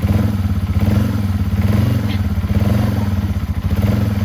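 Yamaha TW200 dual-sport motorcycle's single-cylinder four-stroke engine, freshly started, revving under throttle: the slow thumping idle picks up at the start to a louder, steady higher-revving note that holds.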